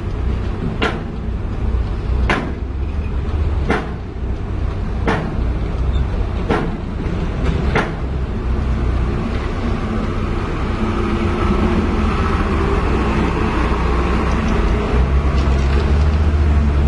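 Heavy diesel engine running steadily, with a sharp click about every second and a half through the first half. The engine gets louder near the end.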